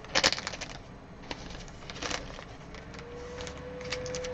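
Trading cards and their plastic or foil packaging being handled, with a quick run of sharp crackles just after the start and scattered single clicks and crinkles after. A faint steady tone sounds in the background in the second half.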